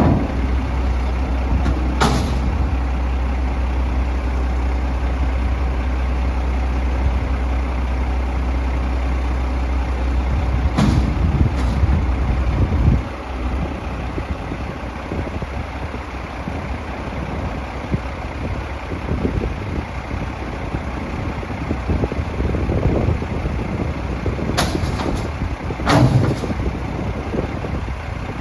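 Autocar Xpeditor garbage truck's engine running with a steady low rumble, broken by short sharp hisses of air about two seconds in, around eleven seconds and twice near the end. The rumble drops off abruptly about halfway through.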